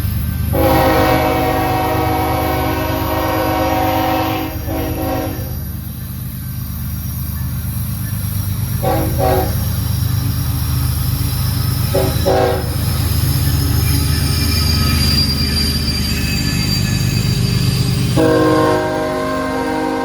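Freight locomotive's K5HL five-chime air horn sounding a long blast, two short blasts and another long blast near the end, over the steady rumble of the train rolling past.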